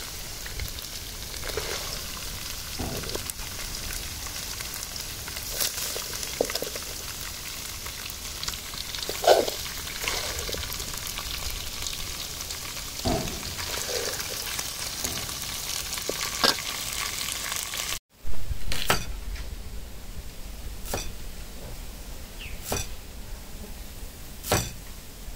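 Shrimp paste and minced pork sizzling as they fry in a pan, with occasional knocks of a stirring utensil. About 18 s in the sound cuts abruptly to a quieter background with a sharp knock every couple of seconds.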